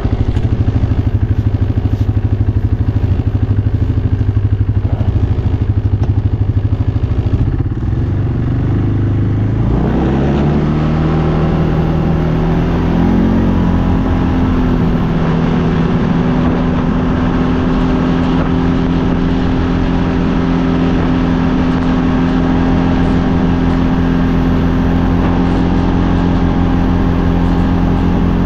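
ATV engine running at low revs with an even chugging pulse, then speeding up about eight to ten seconds in and holding a steady, higher pitch as the ATV rides along.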